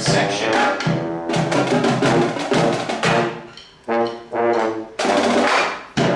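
Marching band playing: trombones and trumpets over drums. The band thins out about three seconds in, then comes back in with loud full-band hits just before four and five seconds.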